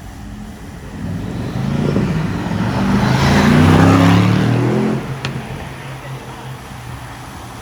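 A car accelerating past, its engine note rising in pitch as it approaches, loudest about four seconds in, then fading away.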